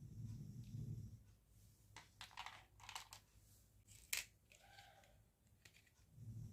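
Faint handling of a toy and its packaging: scattered crinkling and scraping, a sharp click a little after four seconds in, and a brief squeak just before five seconds.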